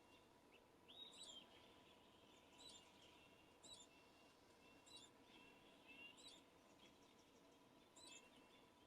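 Faint bird calls: a short, high note repeated about once a second.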